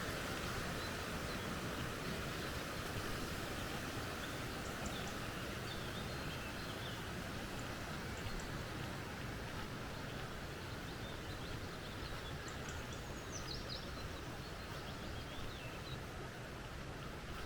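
Steady rush of a flowing creek, easing a little towards the end, with faint bird calls over it: a few short chirps and, later, a quick run of falling notes.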